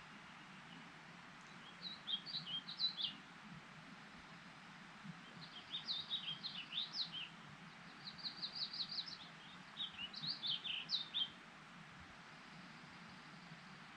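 A songbird singing four short phrases of rapid, high chirping notes, over a steady background hiss of running water and light wind.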